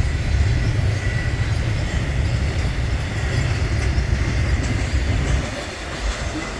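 A short train passing on the rail line, a steady heavy low rumble of wheels on track with a faint steady high whine over it. The rumble eases off near the end as the train goes by.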